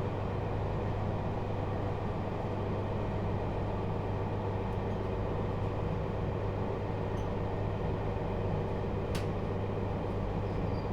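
Interior running noise of a JR Hokkaido 721 series EMU motor car with a Toshiba GTO inverter, running steadily between stations with wheel and track noise at an even level. A single sharp click comes about nine seconds in.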